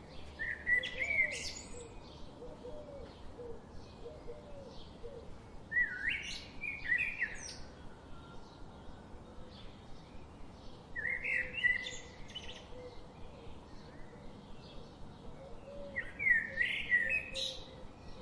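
A songbird singing a short, quick phrase of sweeping high notes four times, about every five seconds, with fainter chirping from other birds underneath.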